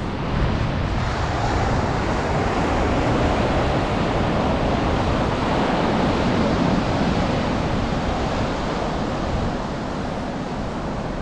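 Atlantic surf washing onto a sandy beach, with wind gusting on the microphone; the wash swells in the middle and eases a little near the end.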